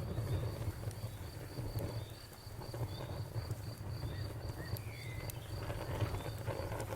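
Campfire burning with a steady low rumble and a few faint crackles, while an insect, likely a cricket, chirps in a steady, evenly pulsing high trill.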